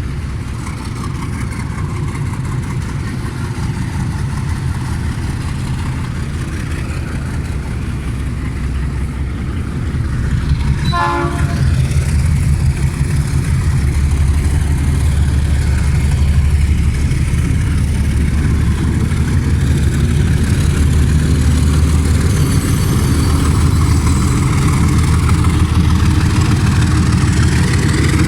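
Train running with a steady low engine rumble that grows louder about ten seconds in, with a short horn toot at about the same moment.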